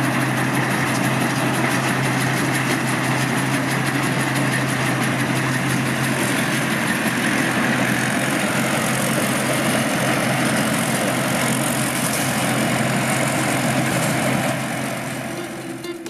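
Rice combine harvester's large Hino diesel engine running steadily while the machine harvests; the sound fades out near the end.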